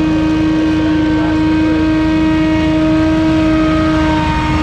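Scag Windstorm stand-on turbine blower running while blowing debris off a road: a loud, steady whine holding one pitch over the engine's low rumble.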